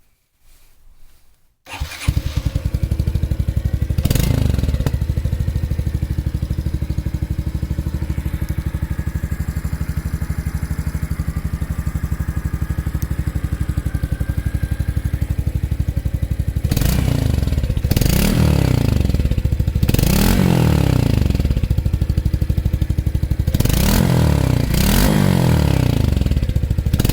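A motorcycle engine starts about two seconds in and settles into a steady, evenly pulsing idle, with a brief rev shortly after starting. In the last ten seconds the throttle is blipped repeatedly, about six short revs that rise and fall back to idle.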